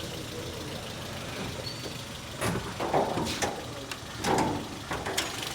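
Toyota GLi car engine running at idle, with several short, louder bursts of noise over the second half.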